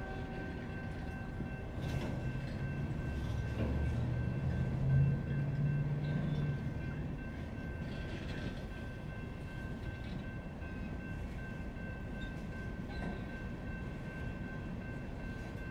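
Freight train rolling past with a steady rumble of railcars. A locomotive's diesel engine drone swells and peaks about a third of the way in, then fades back into the rumble. A steady high-pitched tone runs throughout.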